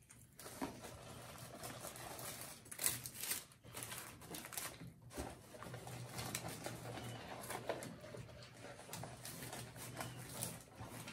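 Chewing and mouth noises of people eating French fries and burgers fast, a run of irregular small clicks and smacks.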